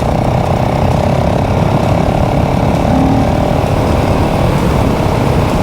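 Motorcycle engine running steadily while riding, under a constant rumble of wind and road noise. The engine's pitch shifts slightly about three seconds in and eases back near the end.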